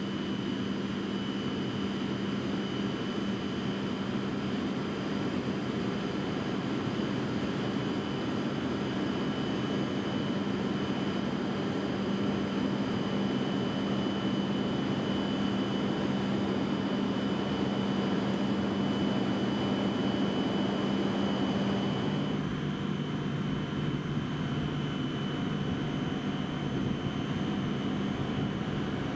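A stationary E7 series Shinkansen train's onboard equipment humming steadily, with a low hum and a thin high whine. About 22 seconds in, the low hum steps down in pitch.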